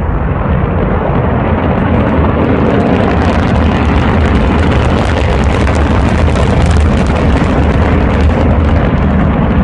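Loud, steady rocket roar with crackling, filling in and growing denser about two seconds in.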